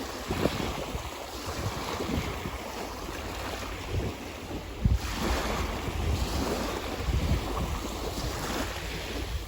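Ocean waves breaking and washing up on the shore, with a wave surging in about halfway through, and wind buffeting the microphone.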